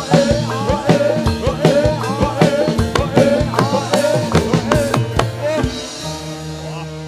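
Javanese gamelan accompaniment for a jathilan dance, driven by rapid kendang drum strokes under pitched melody. The ensemble stops about five and a half seconds in, leaving steady tones ringing out and fading.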